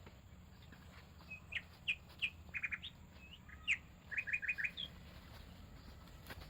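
A forest songbird singing: a run of short chirps and quick trills of three to five notes, starting about a second in and stopping around five seconds in, over a low steady rumble.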